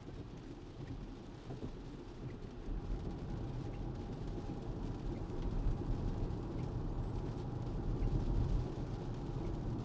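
Tyre and road noise of a Tesla on a wet road, heard inside the cabin: a steady low rumble that grows louder about three seconds in as the car gathers speed.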